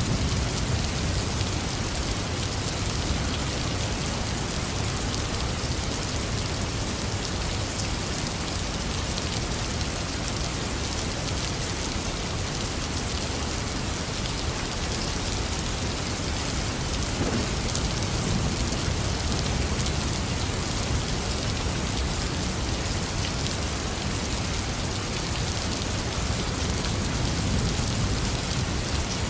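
Heavy rain falling steadily, with low thunder rumbling faintly a few times.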